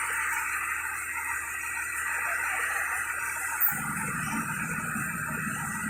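A steady high hiss, joined suddenly about two-thirds of the way in by the low rumble of a nearby vehicle engine.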